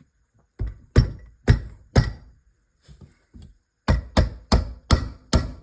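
A series of sharp metallic knocks as parts of a manual transmission are worked off the shaft and handled: four about half a second apart, two faint ones, then a quicker run of about three a second.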